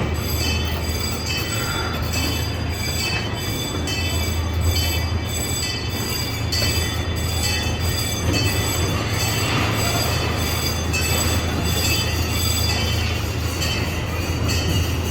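Amusement-park train running along its track, heard from aboard: a steady low rumble with a thin high-pitched wheel squeal.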